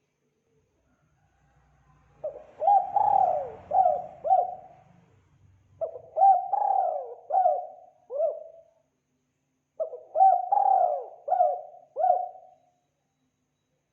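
Spotted dove (tekukur) cooing: three phrases of four or five coo notes each, a second or so apart.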